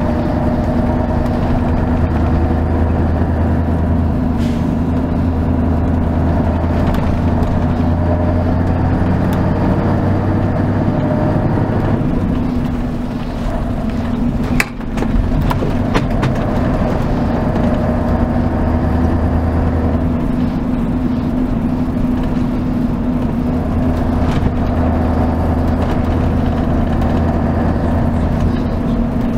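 Mercedes-Benz O 403 SHD coach's V8 diesel engine running, heard from inside the bus, with a steady low drone. The drone drops away about twelve seconds in, a single sharp click comes about fifteen seconds in, and the drone returns about a second later.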